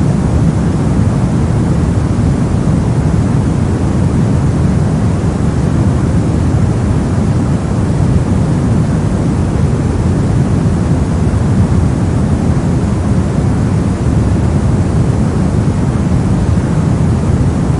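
Steady brown noise: a deep, even rumbling hiss of random noise, weighted heavily toward the low end and thinning out toward the highs, with no changes.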